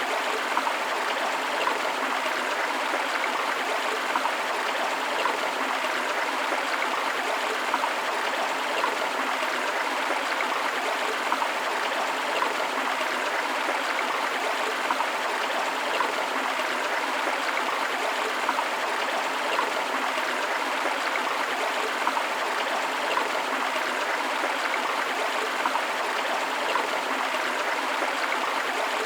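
Flowing stream water running steadily over rocks, a continuous rushing with small splashing and gurgling flecks and no low rumble.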